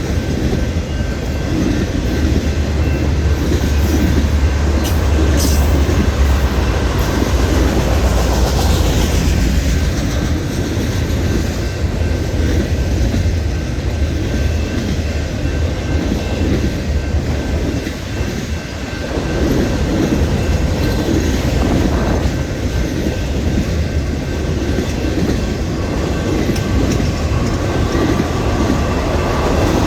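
Freight train cars rolling past at speed, a steady loud rumble with wheels clacking over the rail joints.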